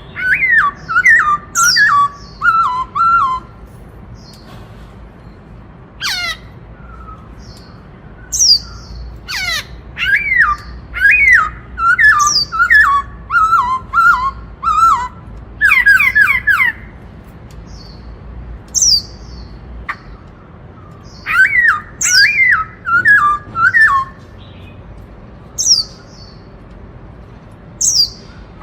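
Black-throated laughingthrush singing loud phrases of clear whistled notes, each sliding down in pitch, with sharp high notes mixed in, in bursts separated by pauses of a few seconds. It is singing its 'bắt cô trói cột' song, which copies the Indian cuckoo's four-note call.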